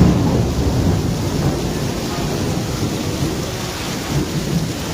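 Heavy rain pouring down, with a low rumble of thunder that breaks in suddenly at the start and eases over a second or two into the rain's steady noise.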